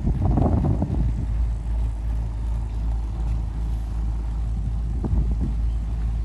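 Marine Trader boat's inboard engine running steadily under way, a low drone, with a couple of brief rustles near the start and about five seconds in.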